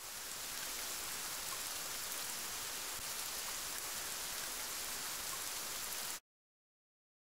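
Steady rain falling on wet paving stones and garden plants. It fades in at the start and cuts off suddenly about six seconds in.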